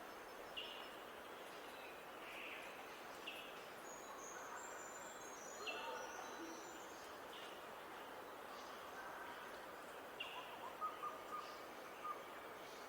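Wild birds calling outdoors: short high call notes repeat roughly once a second, with a brief higher twittering phrase about four to seven seconds in. All of it sits over a steady background hiss.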